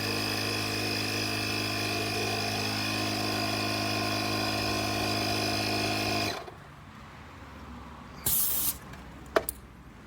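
Portable 12V air compressor (tyre inflator) running with a steady electric-motor hum, then switched off about six seconds in. A couple of seconds later there is a brief hiss of escaping air and then a sharp click.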